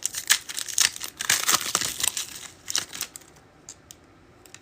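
Foil wrapper of a Donruss football card pack crinkling as it is torn open by hand, with busy crackling for about three seconds that then dies down to a few faint rustles.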